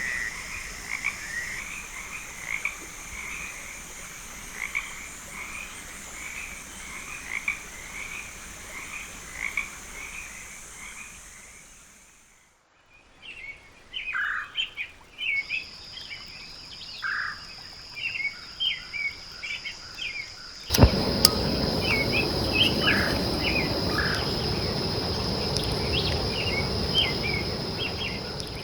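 Frogs calling at night, short repeated calls about twice a second over a steady high insect drone. After a brief fade midway a different mix of frog calls comes in. About two-thirds through, a sharp click brings in a steady rushing noise under the calls.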